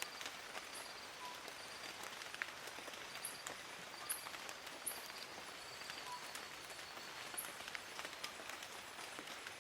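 Steady rain falling on forest leaves: an even patter with scattered, sharper drops. A few brief high-pitched chirps come through now and then.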